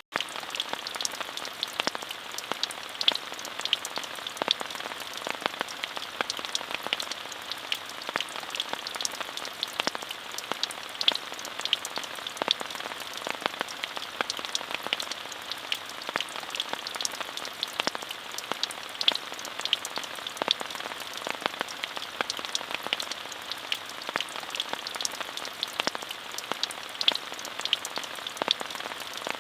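Steady rain falling, a constant even hiss with many sharp individual drop impacts scattered through it. The sound cuts out for an instant at the very start.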